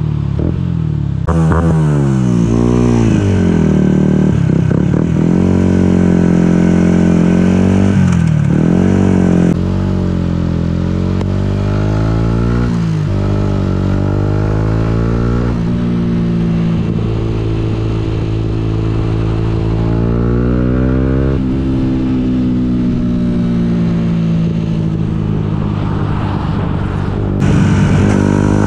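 Yamaha MT-125's single-cylinder four-stroke engine under way, rising in pitch as it accelerates and dropping back at each gear change or roll-off, with wind noise over it. Near the end the sound turns louder and hissier.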